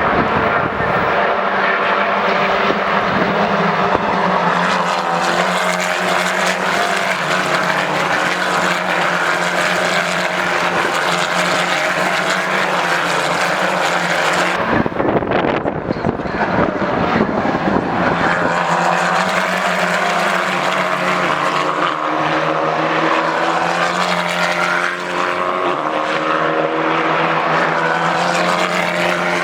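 British F4 single-seater race cars running at high revs on circuit, engine pitch gliding and stepping as they accelerate and shift. About halfway through, the engine note gives way for a few seconds to a rush of broad noise before the engines come back.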